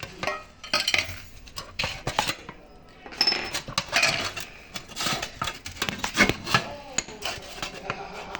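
Irregular metallic clinks, knocks and scraping from metal parts of a washing-machine transmission being worked on to free its shaft, the sharpest knocks about a second in and about six seconds in.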